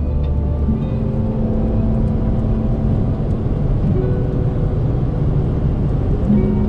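Chevrolet S10's 2.8-litre four-cylinder turbo diesel running at a steady cruise, heard from inside the cab as a continuous low rumble with road noise.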